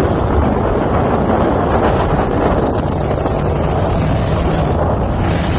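Toyota Sequoia's V8 running with one muffler removed: a loud, steady, raspy exhaust drone mixed with road and wind rush.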